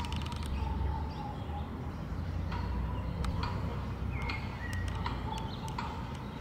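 Birds calling with short, sharp chips and ticks and a faint thin tone that comes and goes, over a steady low hum.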